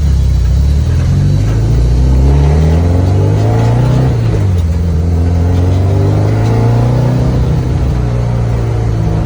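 Built Subaru Impreza's flat-four engine pulling hard under acceleration, heard loud inside the gutted, caged cabin. Its pitch climbs, falls away at a gear change about four seconds in, then climbs again and levels off.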